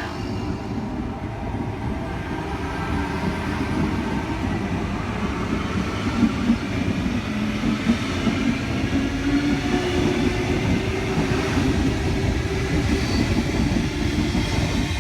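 Sydney Trains Tangara electric multiple-unit train running along the platform, a continuous rail rumble with a low motor hum that grows gradually louder.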